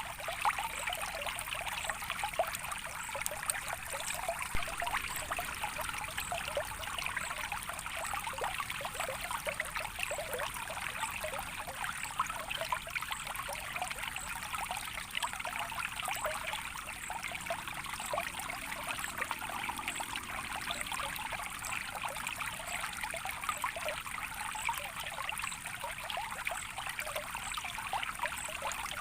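Water trickling and splashing steadily in a small stream, a continuous gentle babble with many small droplet splashes.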